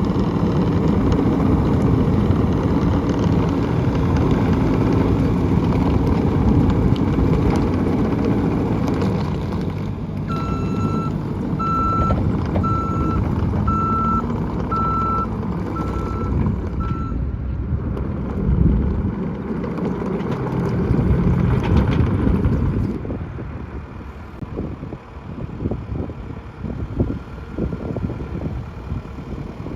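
New Holland C232 skid steer's engine running under load, with its backup alarm giving a steady series of single-pitched beeps for several seconds in the middle as the machine reverses. Near the end the engine sound drops away, leaving quieter, gusty noise.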